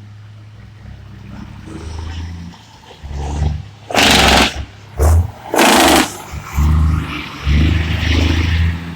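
Heavy truck engines revving in repeated swells, with two short, loud hissing blasts about four seconds in and again near six seconds.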